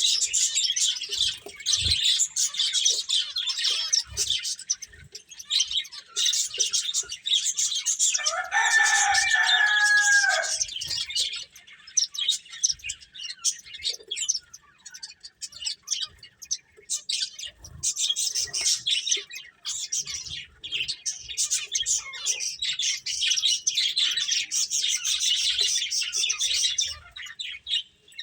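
Pet finches chirping in dense, rapid stretches of high twitters, with quieter gaps between them. About eight seconds in, a lower, longer call that bends in pitch sounds for a couple of seconds.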